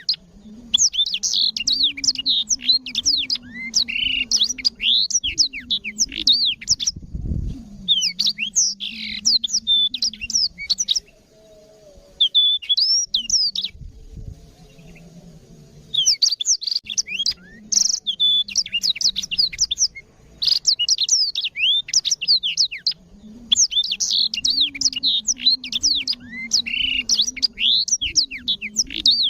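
Black-throated canary singing in long, rapid bouts of twittering trills and quick whistled sweeps, with a pause of a few seconds in the middle.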